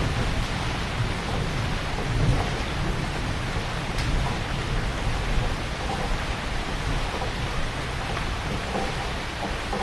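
Heavy rain falling steadily, with a deep rumble of distant thunder that slowly fades away.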